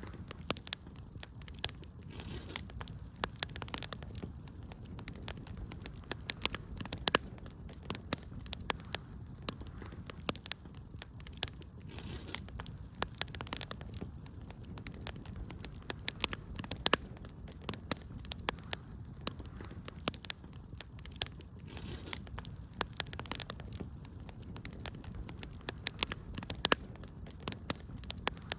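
Wood fire burning in a fireplace: a low steady rush of flame with frequent sharp, irregular crackles and pops.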